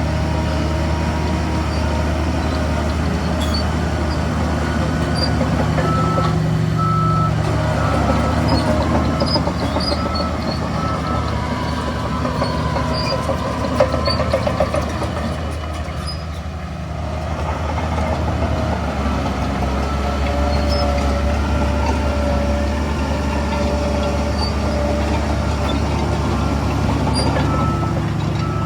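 Heavy diesel engines of a bulldozer and dump truck running steadily, with a reversing alarm beeping in a short, even repeat at times.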